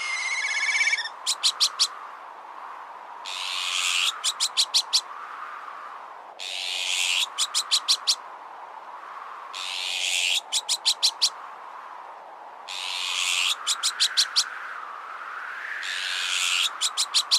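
Azure-winged magpie alarm calls repeating about every three seconds: a harsh rasping call followed by a quick run of five or six short notes. Under them runs a whistling wind that rises and falls slowly.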